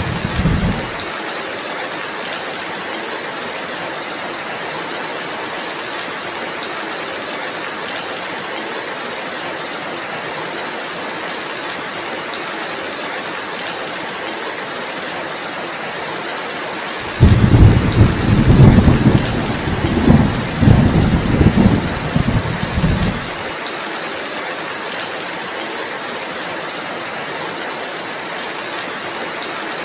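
Heavy rain falling steadily. A rumble of thunder dies away in the first second, and another deep rolling rumble of about six seconds comes a little past the middle, louder than the rain.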